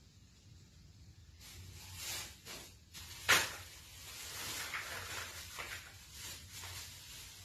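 Handling noises: rustling and shuffling, with one sharp clack a little over three seconds in.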